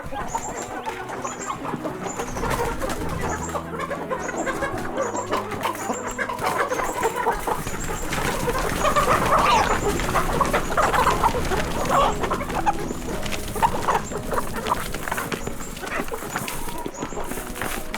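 Flock of chickens clucking and calling, with repeated short high peeps through the first half and a louder stretch of calling in the middle.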